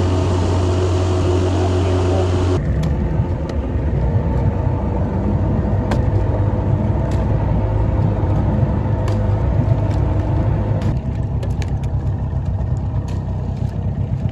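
Boat's outboard motor running steadily, with its sound changing abruptly about two and a half seconds in to a rougher, noisier run with scattered clicks.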